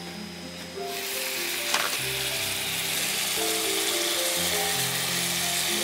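Beef and vegetable skewers frying in teriyaki marinade in a pan, sizzling steadily, the sizzle jumping up loudly about a second in. A single knock, likely the wooden spatula against the pan, comes just after; background music with held notes plays underneath.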